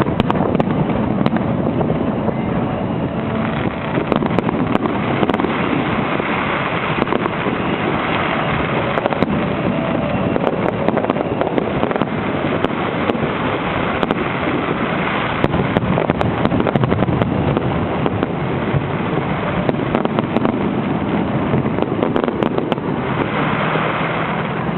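Fireworks display going off in a dense, continuous barrage: a steady rumble of bursts packed with sharp crackles and bangs, with no let-up.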